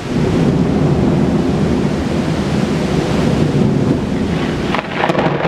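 Thunder rumbling loudly during a tropical thunderstorm, setting in suddenly and rolling on as a steady deep rumble, with a few sharp cracks near the end.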